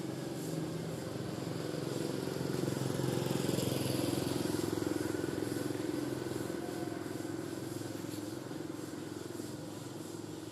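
A motor vehicle's engine passing close by, growing louder over the first few seconds and then slowly fading.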